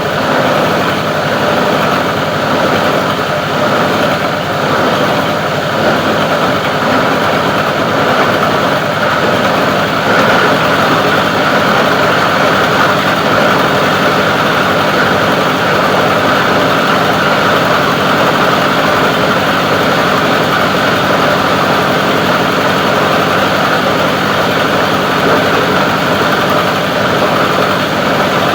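Plastic recycling grinding machine running, a loud, steady mechanical noise with no breaks or changes.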